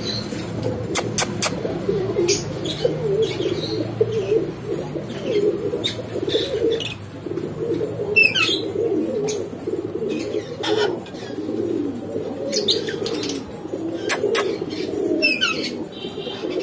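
A pet parrot giving short, high chirps that fall in pitch, a few times, over a continuous low cooing warble.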